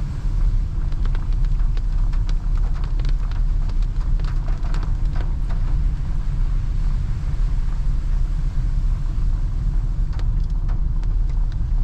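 Steady low road rumble inside a moving car's cabin, tyres and engine at cruising speed, with scattered light ticks in the first half and again near the end.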